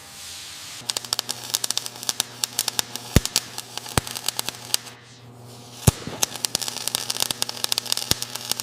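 Electric welding crackle: rapid, irregular crackling over a low steady hum, in two runs with a short break about five seconds in.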